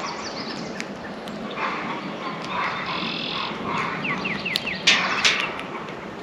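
Several backyard songbirds calling: short harsh chatters, then a run of four quick falling notes. Sharp clicks come about five seconds in.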